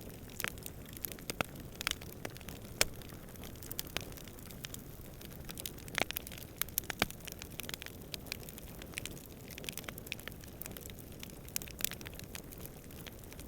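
Wood fire crackling, with irregular sharp pops and snaps, the loudest about three seconds in and about six seconds in, over a steady low rush of distant wind.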